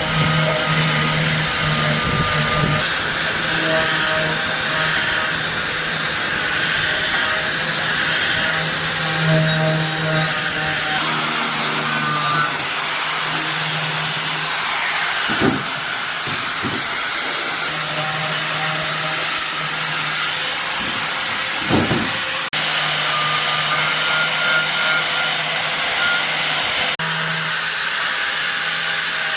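A power tool running steadily, mostly a loud hiss with a low hum that comes and goes. Two short dull knocks come about halfway through and again about two-thirds through.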